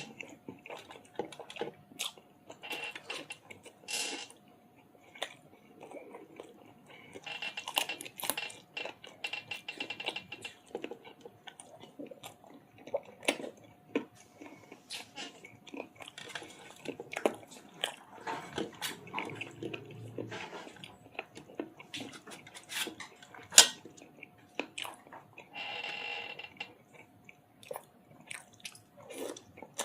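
Close-miked eating sounds of a person eating chicken curry with roti and rice: irregular chewing, smacking and wet mouth clicks, with one sharper click about two-thirds of the way through.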